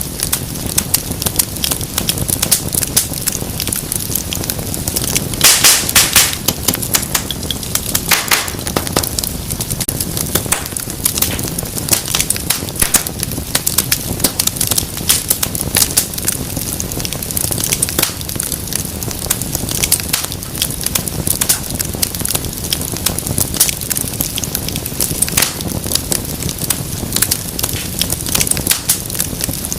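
Wood fire crackling steadily, with dense sharp pops and snaps over a low roar of flame; a run of louder pops about five to six seconds in and another near eight seconds.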